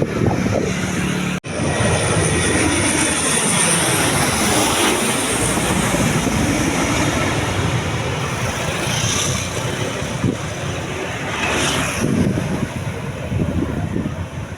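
Lockheed C-130H Hercules's four Allison T56 turboprop engines droning loudly as the aircraft passes low overhead on its landing approach. A high turbine whine fades out over the first few seconds, and the sound cuts out for a moment about a second and a half in.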